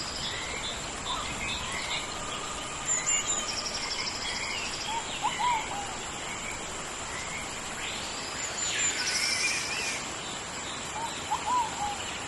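Tropical rainforest ambience: a steady hiss of rain under a continuous high insect drone and repeated pulsing insect trills. Birds call over it, with a short looping call twice, about five and eleven seconds in, and a longer sweeping call between about eight and ten seconds.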